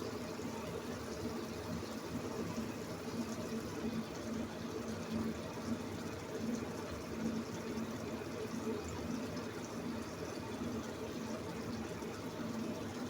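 A pan of kochur loti (taro stolon) and fish curry simmering in its own released water, a steady sizzling bubble.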